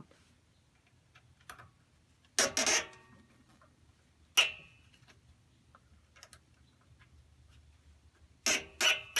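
A few sharp knocks and clanks of hand tools on tiller parts during reassembly: a short cluster about two and a half seconds in, a single loud one just past the middle, and two close together near the end.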